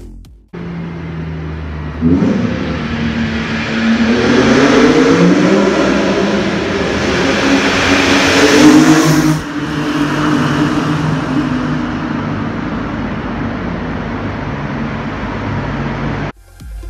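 BMW E46 M3's 3.2-litre straight-six running through a catless Supersprint header-to-muffler exhaust, with a CSL carbon airbox on the intake. It runs steadily at first, then about two seconds in it suddenly gets louder and climbs in pitch for some seven seconds. It then drops back to a steadier, lower note until the sound cuts off shortly before the end.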